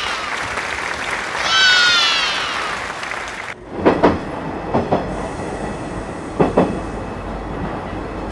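Krösatåg regional electric train rolling slowly into a station. In the first few seconds a high tone falls in pitch twice over the rolling noise. After a cut, the running noise continues with occasional knocks as the wheels cross rail joints.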